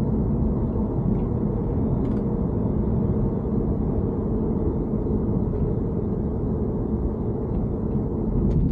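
Steady low rumble of a BMW E90 3 Series on the move, with a few faint ticks above it; the car is being recorded for an abnormal noise that is not singled out here.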